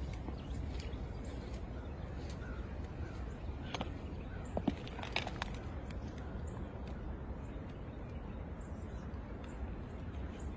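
Outdoor ambience: faint bird chirps over a steady low rumble, with a few short, sharp clicks and a brief call about halfway through.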